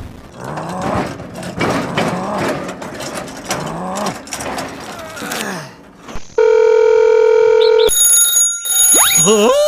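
Cartoon-style voices wailing without words for the first few seconds, then a loud steady electronic alarm tone for about a second and a half, followed by high tones and a rising whistle near the end.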